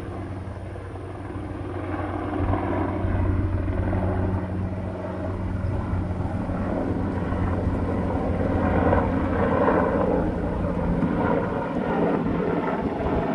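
Coast Guard aircraft passing overhead: a steady low engine drone that grows steadily louder as it approaches.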